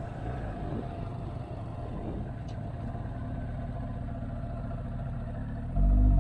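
Motorcycle engine running while riding, a steady low rumble that gets suddenly much louder near the end.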